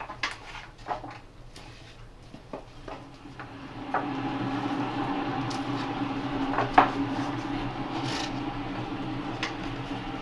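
Scattered knocks and clicks of someone settling onto a canoe ergometer. From about four seconds in, a steady whirring hum of the ergometer's flywheel spinning sets in, with one sharper knock partway through.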